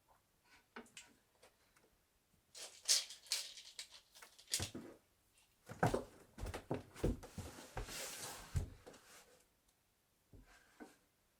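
Wooden bed parts being handled during assembly: a run of knocks, clicks and scraping starting about two and a half seconds in, with a longer scrape around eight seconds, then a few light taps near the end.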